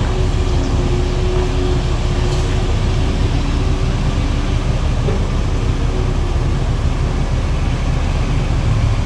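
Heavy truck engines running with a steady low rumble, with a faint hum that comes and goes.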